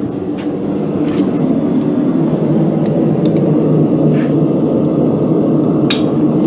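Blacksmith's forge running with a steady low rumble while steel heats in it. A few light clicks sound over it, one sharper near the end.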